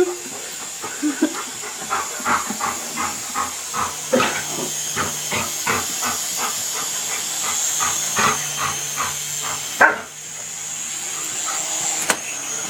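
A dog barking hard and fast at a grounded toy helicopter, a couple of barks a second, which stops about ten seconds in. A steady high hiss runs underneath.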